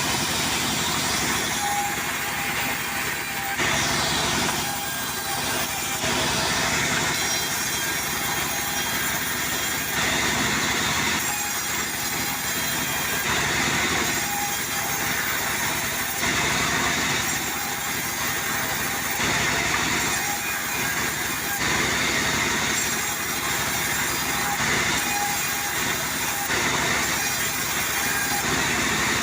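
Portable sawmill running and cutting through wood: a steady loud mechanical noise that swells and eases slightly every couple of seconds.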